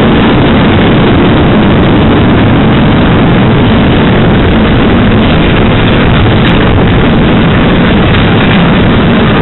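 Loud, steady rumble of freight train container wagons rolling past on the rails, wheels on track, with no break or change.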